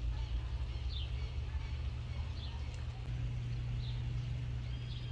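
A bird repeating a short high chirp about once a second over a steady low hum.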